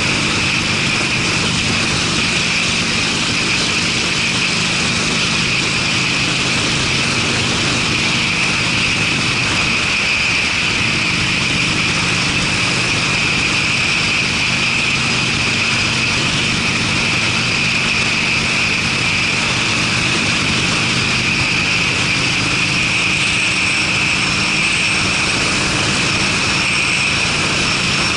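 Harley-Davidson Sportster V-twin with aftermarket Screamin' Eagle mufflers running at a steady cruising speed, under a continuous rush of wind and road noise. The engine note holds steady with no revving.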